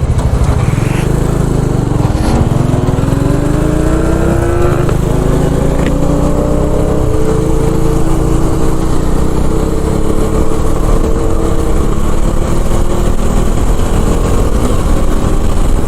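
Motorcycle engine accelerating at full throttle, its pitch rising steadily for several seconds before it holds at speed. Heavy wind rumble underneath.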